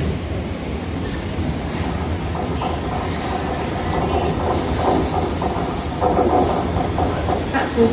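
Passenger train running through the station on its rails: a steady rumble of wheels on track, growing a little louder in the second half, with some wheel squeal.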